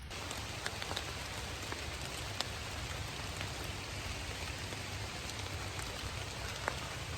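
Steady rain falling in woodland: an even hiss with scattered sharp drips, one louder drip near the end.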